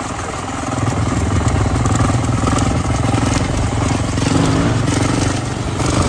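Dirt bike engine running under way with a fast, even pulse. It gets louder about a second in and holds steady.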